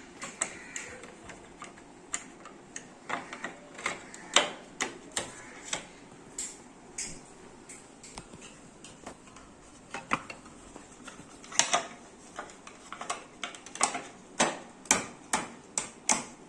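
Sharp, irregular clicks and knocks of hand tools and small metal parts, such as screws, being handled during treadmill assembly. The taps sometimes come two or three in quick succession, with a quieter spell in the middle.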